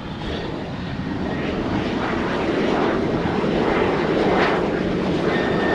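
Fixed-wing airplane engine noise swelling as the airplane passes close by, loudest about four seconds in, with a steady high whine setting in near the end.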